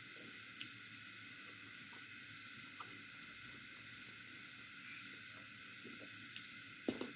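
Crickets chirping in a steady high pulse, about four chirps a second. Over it come faint scattered clicks of eating, with a sharper click near the end.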